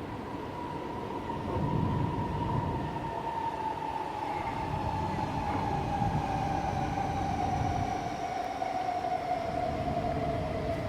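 A passing vehicle's whine, slowly and steadily falling in pitch, over a continuous rushing, rumbling noise.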